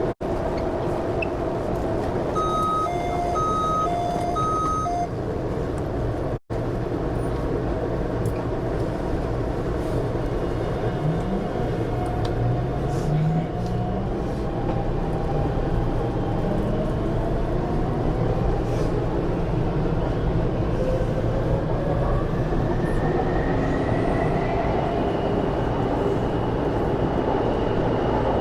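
An MTR Tuen Ma line train with a steady running rumble. Three short electronic beeps sound a few seconds in. After that the traction motors whine rising in pitch as the train accelerates.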